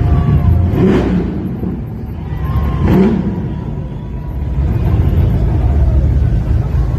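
A car engine rumbling with a heavy low note, revved up twice, about a second in and again about three seconds in, easing back between.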